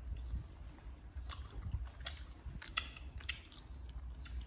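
Crunchy chewing of fruit: a few short, sharp crunches at irregular intervals over a low steady hum.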